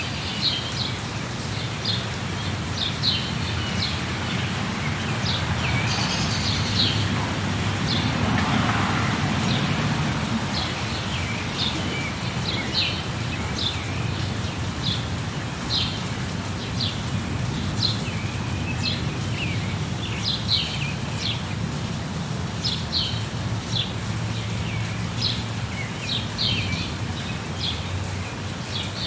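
Small birds chirping in short, repeated high calls throughout, over a steady hiss of rain with a low rumbling bed. The background briefly swells louder about six to ten seconds in.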